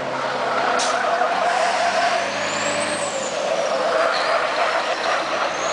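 Turbodiesel racing trucks running on the circuit, their engine noise swelling and easing as they go by. A high whistle rises in pitch, peaks about halfway through, falls, then rises again near the end; a short click comes about a second in.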